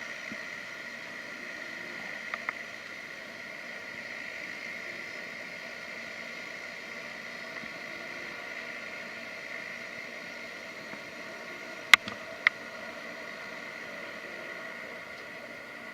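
Seaplane's propeller engines running steadily, a steady whine with a noisy hiss beneath. A few sharp clicks sound about two seconds in and about twelve seconds in.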